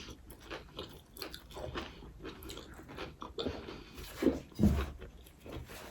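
Close-up chewing and crunching of a chicken roll, a run of small crisp bites and mouth sounds, with two louder low bumps a little after four seconds in.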